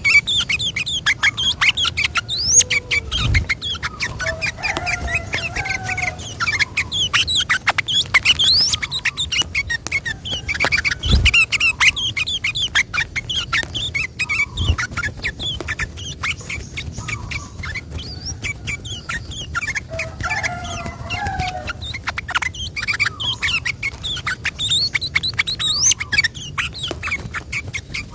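Yellow-vented bulbul singing long, rapid runs of short chirps and whistled notes, a continuous chattering 'ropel' song. A few dull low thumps sound under it.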